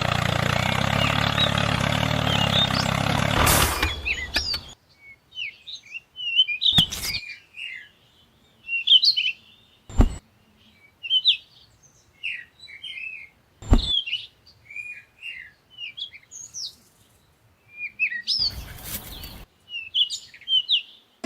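Birds chirping and singing in quick, short calls, with a few sharp knocks among them. Before the birds come in, a loud, dense noise runs for the first few seconds and then cuts off abruptly.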